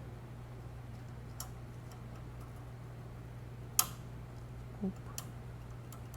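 A few sharp clicks and taps from small parts of the light's colour wheel being handled during cleaning, the loudest about four seconds in, followed by a soft knock and another click. A steady low hum runs underneath.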